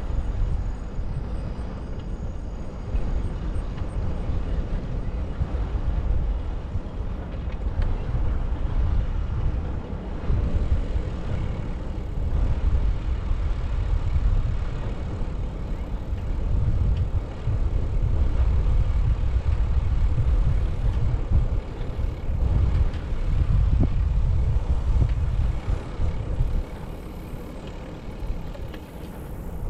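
Low, gusting rumble of wind buffeting a GoPro's microphone while riding a bike, with road noise underneath; it grows louder for several seconds in the second half, then eases near the end.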